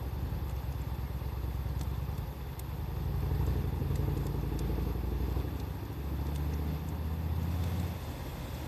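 Wood fire crackling with sparse, sharp pops, under a loud low rumble that swells about three seconds in.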